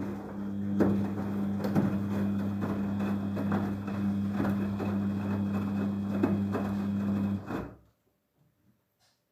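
Daewoo DWD-FT1013 washing machine running on a hand-wash programme: a steady low hum with irregular knocks and splashing, which stops abruptly about seven and a half seconds in.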